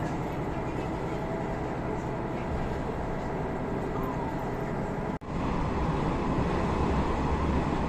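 Sanriku Railway train running: a steady low rumble of engine and wheels. It cuts off abruptly about five seconds in and comes back slightly louder.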